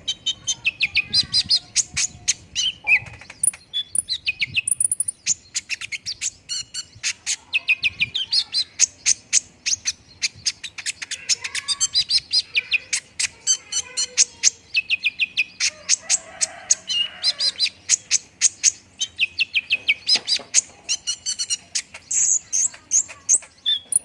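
Olive-backed sunbird (kolibri ninja) singing: a fast, unbroken run of high-pitched chirps, ticks and trills.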